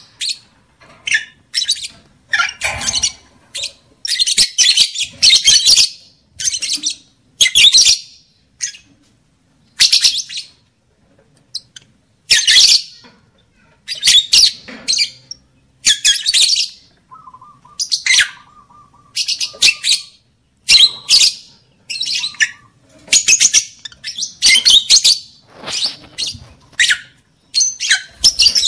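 Lovebird chattering: short bursts of shrill, harsh twittering calls, one after another every second or so.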